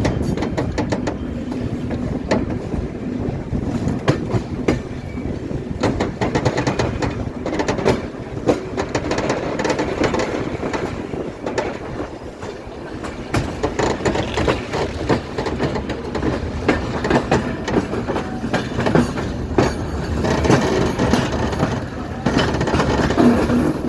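Train wheels clattering over rails and a set of points as the train is switched onto another track: a continuous rumble broken by many irregular clicks and clacks.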